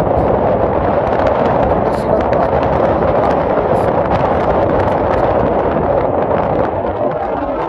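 Strong winter sea wind blasting across the microphone: loud, steady wind noise that eases slightly near the end.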